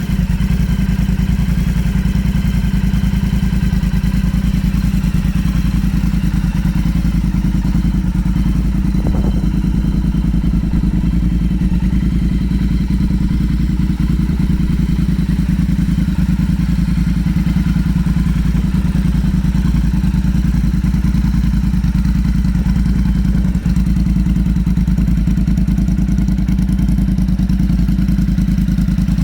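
Motorcycle engine running steadily at a constant speed with an even, rapid beat and no revving.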